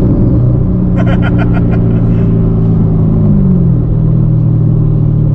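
Supercharged 6.2-litre V8 of a C7 Corvette ZR1 running under way, heard from inside the cabin with the exhaust in sport mode; its pitch steps down about three seconds in. A brief rapid string of beeps sounds about a second in.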